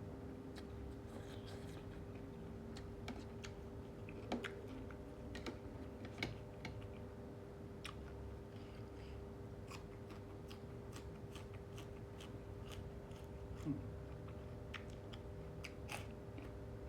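A person chewing a mouthful of spicy instant-noodle seafood salad with squid and shrimp, with scattered small clicks of eating.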